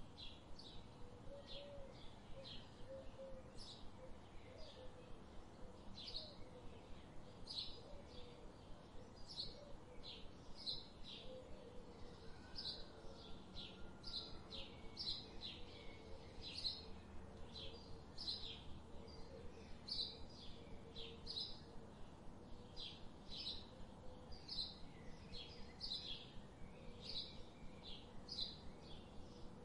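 A bird calling a short, high note over and over at a steady pace, more than once a second, with faint forest background noise.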